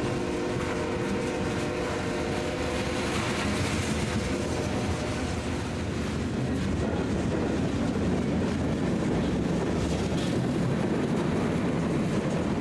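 BNSF freight train rolling past, a steady rumble of wheels on rail. A held chord of steady tones fades out over the first few seconds.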